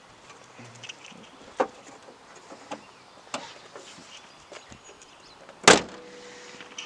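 Scattered light clicks and knocks, then one loud, sharp thump near the end.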